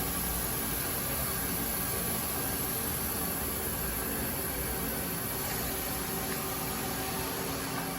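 Mazak Slant Turn 60NRB CNC lathe running under power: a steady machine hum and hiss with a few faint steady tones and a high whine.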